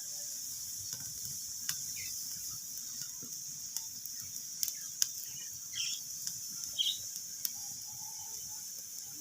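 Wood fire in a fireplace crackling: sharp, irregular pops and snaps over a steady hiss.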